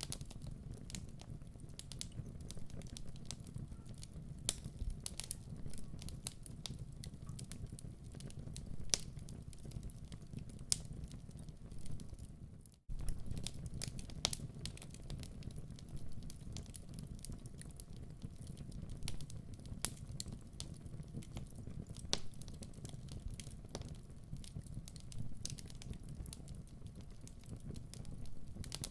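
Fireplace fire crackling: irregular sharp snaps and pops over a steady low rumble, with a brief dropout about 13 seconds in.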